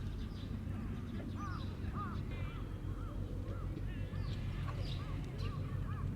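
Birds calling: many short, repeated chirping calls over a steady low hum.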